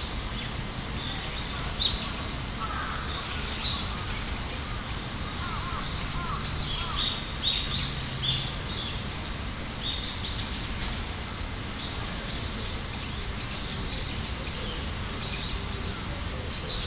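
Birds chirping and calling, many short high notes scattered throughout, over a steady low background hiss.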